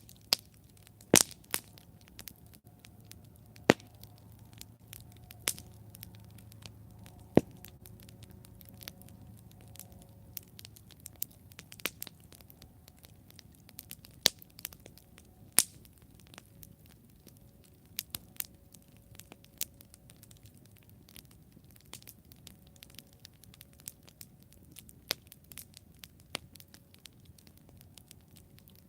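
Wood campfire burning and crackling: a steady stream of small snaps and pops over a faint low rumble, with a few louder pops standing out, about one, four and seven seconds in.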